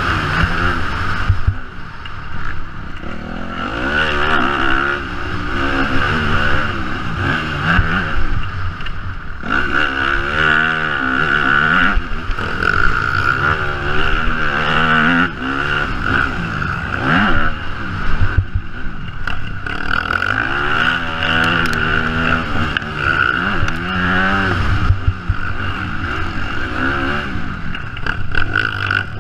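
Yamaha motocross bike's engine revving hard and backing off again and again as it is ridden around a dirt track, its pitch climbing and dropping every second or two. A steady high-pitched whine runs under it the whole time.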